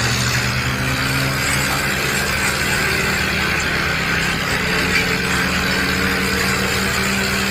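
Tractor engine running steadily, a continuous low engine drone with a slight change in tone about three to four seconds in.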